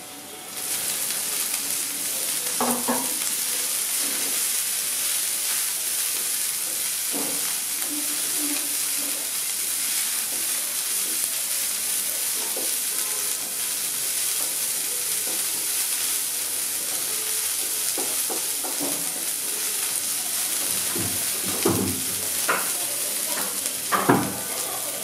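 Chopped cauliflower hitting hot oil in a non-stick frying pan of onions and green chillies: the sizzle jumps up about half a second in and then runs on steadily as a wooden spatula stirs. Occasional scrapes and taps of the spatula against the pan, loudest near the end.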